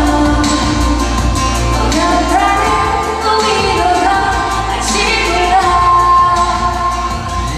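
A woman singing a Korean pop song live, with pop music accompaniment and held sung notes.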